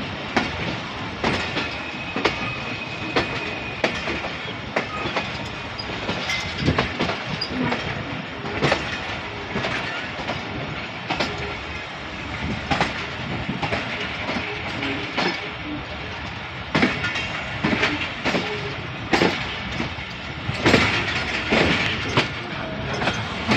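Jaffar Express passenger train running on the rails: a steady rumble with the wheels clicking irregularly over rail joints, clickety-clack, and a faint high whine for a couple of seconds about two seconds in.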